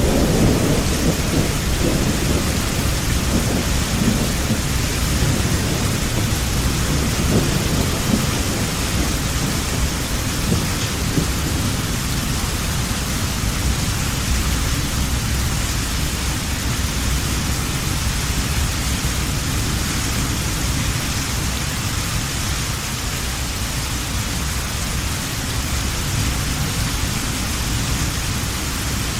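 Heavy rain falling steadily, with a low rolling rumble of thunder that dies away over the first several seconds.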